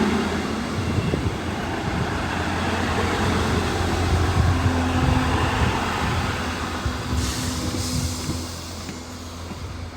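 Two coupled Class 158 diesel multiple units running with a steady low engine drone. A burst of hissing comes about seven seconds in, and the sound eases off near the end.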